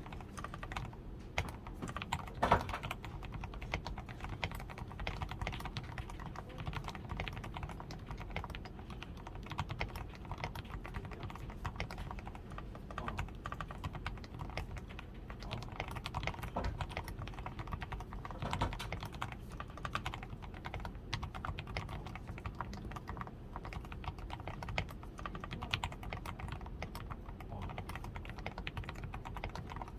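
Steady typing on a DAREU A87 Pro mechanical keyboard, fully lubed with Krytox 105, with a tape-modded PCB, Poron switch foam, lubed stabilizers and XDA keycaps: a continuous stream of keystrokes, with one louder stroke about two and a half seconds in.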